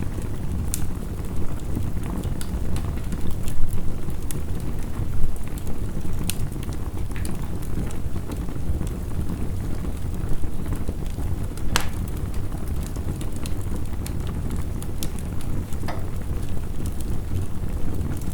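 A wood fire crackling with scattered sharp pops over a steady low rush of heavy rain. One louder pop comes about two-thirds of the way through.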